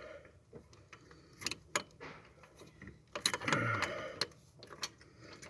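Metal hand tools and engine-bay parts clinking in a few sharp clicks as a wastegate is worked onto a turbocharger. A brief low vocal sound, falling in pitch, comes a little past halfway.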